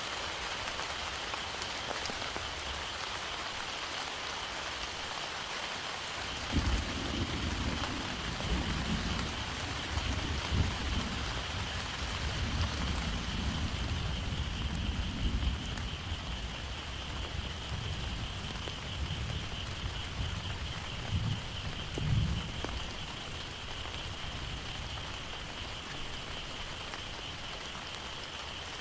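Heavy rain falling steadily, with a long low roll of thunder that starts suddenly about a quarter of the way in, swells in several surges and dies away after the middle.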